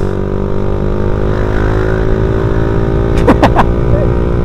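Suzuki Satria F150's fuel-injected single-cylinder four-stroke engine running at steady revs through an aftermarket racing exhaust, heard from the rider's seat. A brief high-pitched sound cuts in about three seconds in.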